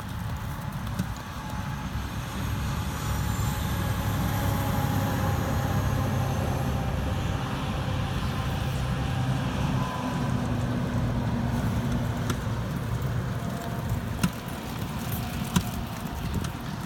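A motor vehicle's engine runs with a steady low rumble, a little louder through the middle, with a couple of sharp clicks near the end.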